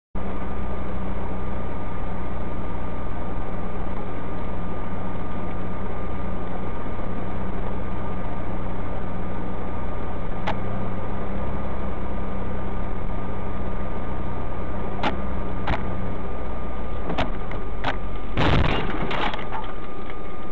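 Steady vehicle engine and road noise with a thin high whine. A few sharp knocks come partway through, then a brief dense clatter of impacts about eighteen seconds in, typical of a collision.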